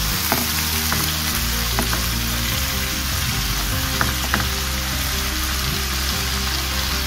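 Julienned potato strips sizzling steadily in hot oil in a frying pan as a spatula stirs them, with a few light clicks of the spatula against the pan.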